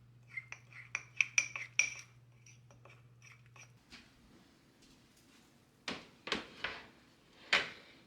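Dishes and utensils clinking: a quick run of ringing clinks in the first two seconds, then a few louder knocks near the end. A faint low hum stops about four seconds in.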